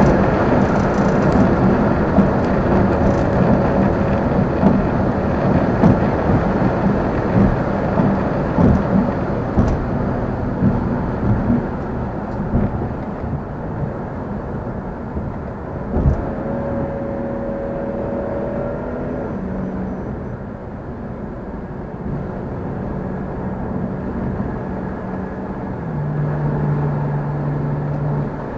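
Car engine and road noise while driving, a dense rumble that is loudest over the first dozen seconds and then eases off, with a single sharp knock about two-thirds of the way in.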